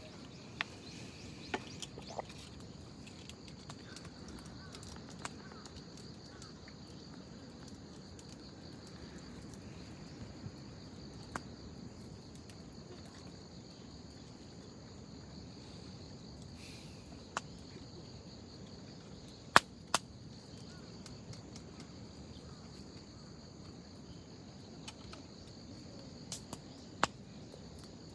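Wood fire crackling, with scattered sharp pops and a soft low hiss; the loudest two pops come close together about twenty seconds in. A steady high insect chirr runs underneath.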